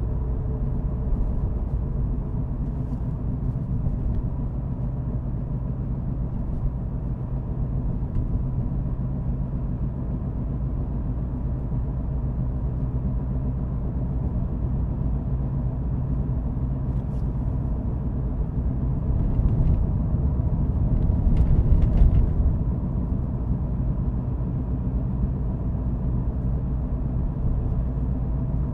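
A car being driven at steady speed: a continuous low engine and road rumble that swells a little about twenty seconds in, with a few faint ticks.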